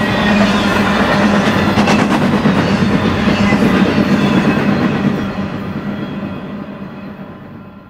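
Trailer-on-flatcar intermodal freight train rolling past, its wheels rumbling on the rails with a steady hum and a few clicks. As the last cars go by, about five seconds in, the sound fades away.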